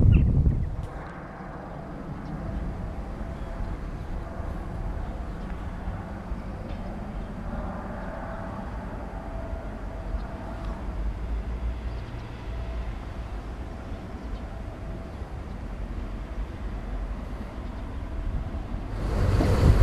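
A Desiro diesel multiple-unit passenger train rolls slowly past on a 10–15 km/h speed restriction, giving a low, steady running sound with a faint hum. Wind buffets the microphone loudly for the first second and again near the end.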